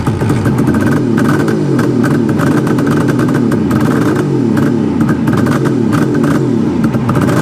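1973 Suzuki GT550 two-stroke triple engine running, its pitch rising and falling again and again as the throttle is blipped. The engine is being brought back to life after some 30 years laid up.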